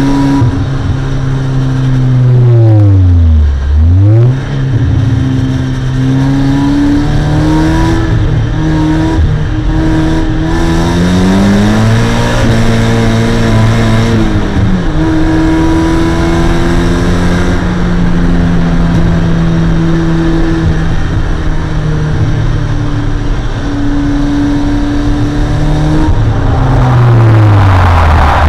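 Onboard sound of a 1.6-litre Mazda MX-5's four-cylinder engine on track. The revs drop sharply about three seconds in, then climb again through the gears and stay fairly steady and high through the middle. Near the end they fall and rise again.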